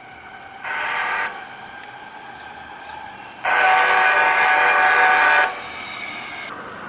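Los Angeles Metro light rail train's horn: a short blast, then a longer blast of about two seconds a few seconds later.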